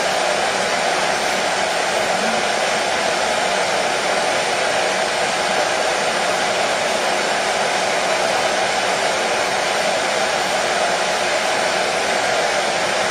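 Hair dryer running steadily, a constant even whoosh of blown air and motor noise with no change in level.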